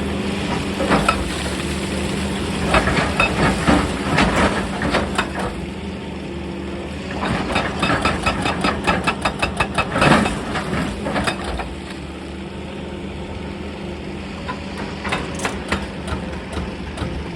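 Excavator diesel engine running steadily while it works rock, with clusters of sharp rock knocks and cracks. A fast, even run of strikes, about six a second, comes a third of the way in and is loudest just before it stops.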